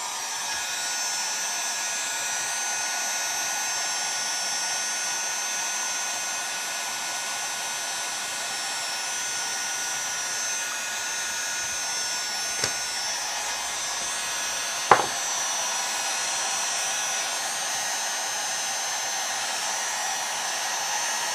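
Electric heat gun running steadily, blowing hot air onto a chainsaw crankcase to warm the bearing seat for fitting. Two sharp clicks come about twelve and fifteen seconds in, the second louder.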